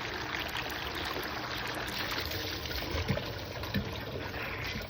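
A steady stream of water splashing onto garden plants and leaves during watering, with two brief soft knocks about three and nearly four seconds in.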